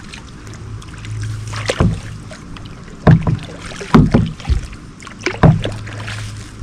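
Kayak paddle strokes splashing in the water, roughly one a second.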